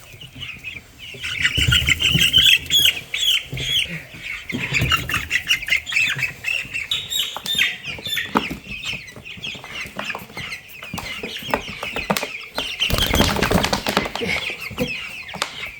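A flock of young meat-bird chicks peeping continuously, with a burst of wing flapping and rustling about thirteen seconds in.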